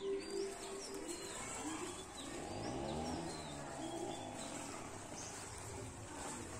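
Wild birds chirping faintly, with short high chirps scattered throughout. A low sound swells and fades around the middle.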